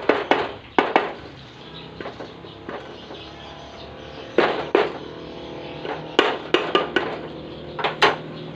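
Hand tools knocking and clinking against engine parts during reassembly: about a dozen sharp taps in irregular clusters of two to four.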